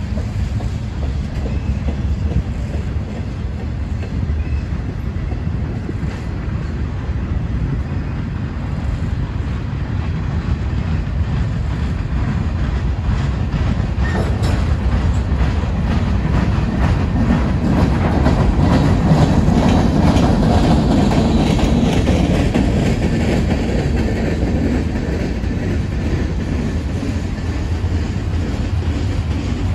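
Norfolk Southern freight train passing, its cars rumbling along with wheels clacking over the rail joints; it grows louder a little past halfway, then eases slightly.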